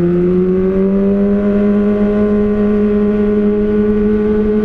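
Kawasaki ZX-25R's 250 cc inline-four with an Austin Racing slip-on silencer, running under steady throttle. Its exhaust note slowly rises in pitch as the revs build.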